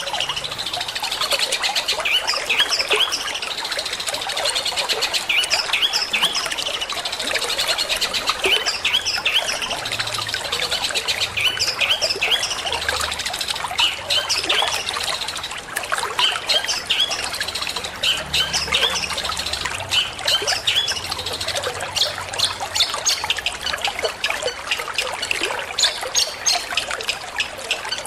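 Long-tailed shrike (cendet) song: a dense run of short, quick chirping notes repeating throughout, over steady trickling water.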